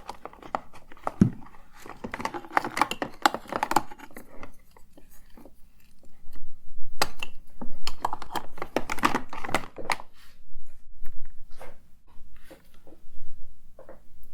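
Close-miked ASMR rummaging through cosmetics: quick taps and clicks on handled cases and bottles with rustling of a cosmetics bag, busiest about two and seven seconds in, then sparse single clicks.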